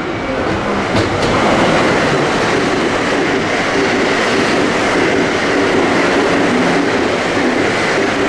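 Train running along the platform at speed, a loud steady rush of wheel and running noise, with a sharp click about a second in.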